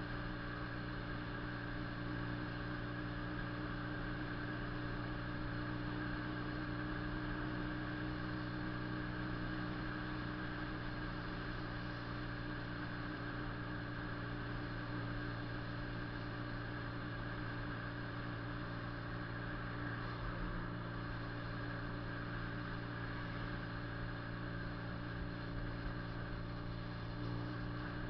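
Honda CB 400 II parallel-twin engine and exhaust running at a steady, unchanging engine speed.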